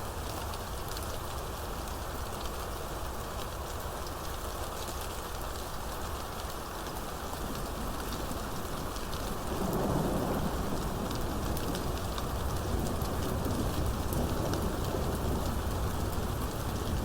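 Steady rain falling, with thunder rumbling in about halfway through and going on to the end.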